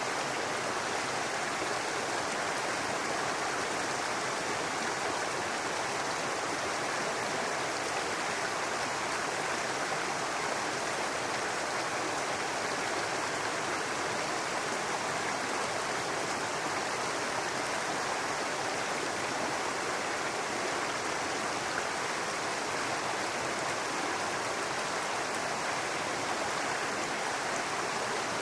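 A shallow brook babbling over rocks: a steady, unbroken rush of running water.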